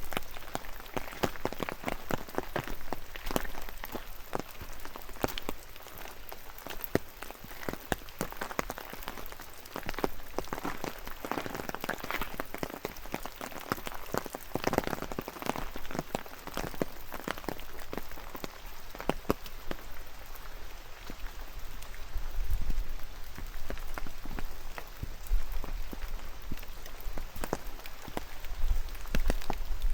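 Steady rain with many separate drops tapping and pattering close by. In the second half, low gusts of wind rumble on the microphone.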